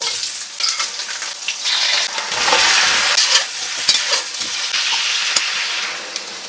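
Food sizzling in hot oil in a wok while a metal ladle stirs and scrapes it, with scattered sharp clacks of the ladle against the pan. The sizzle eases off near the end.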